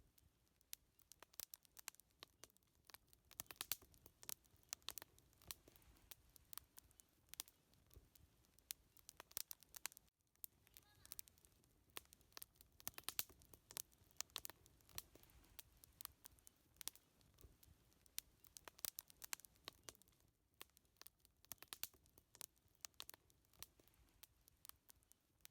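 Wood fire crackling: irregular sharp pops and snaps over a faint low rumble, with brief lulls about ten and twenty seconds in.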